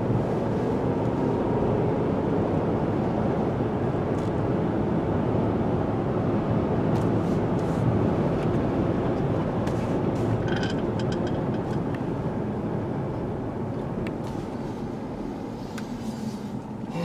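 Steady road and engine noise heard from inside the cabin of a 2016 Ford Explorer with a 3.7L V6, driving at speed. The noise eases off slightly near the end.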